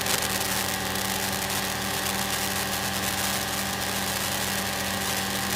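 Single-engine Cessna's piston engine and propeller droning steadily in cruise, heard inside the cabin.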